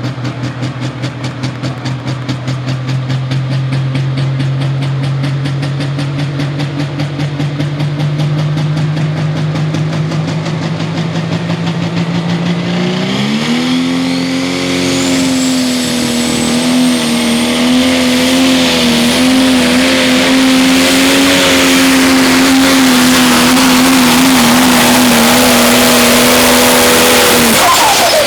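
Pro stock pulling tractor's turbocharged diesel engine under load during a pull. It runs with a pulsing, slowly climbing tone for about twelve seconds, then revs up sharply and holds at high RPM with a high whistle rising over it and noise building. The engine drops off suddenly near the end as the pull finishes.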